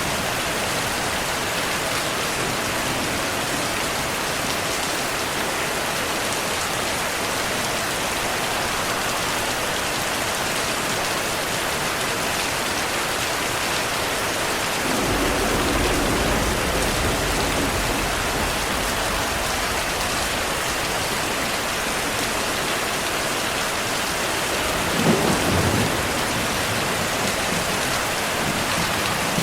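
Steady heavy rain, with thunder: a low rumble of thunder rolls for a few seconds about halfway through, and a sharper thunderclap comes near the end.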